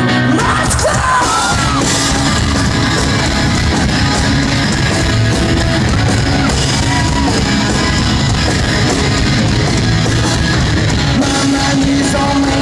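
A rock band playing loud and continuously in a live concert, with voices singing and yelling over the band.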